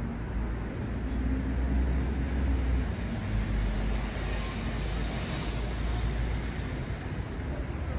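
Road traffic noise: a steady low rumble with tyre hiss, swelling as a vehicle passes about halfway through.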